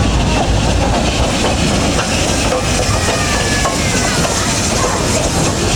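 A train running past with a steady, unbroken noise.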